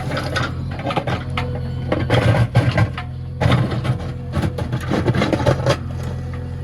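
JCB 3DX backhoe loader's diesel engine running steadily, under repeated bursts of clattering and rushing noise from the machine working soil.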